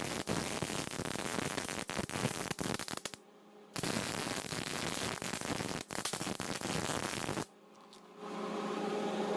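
MIG welder crackling as it lays stitch welds on the thin steel of a Kubota F3060 tractor muffler: two bursts of about three seconds each with a short break between. A steady hum takes over near the end.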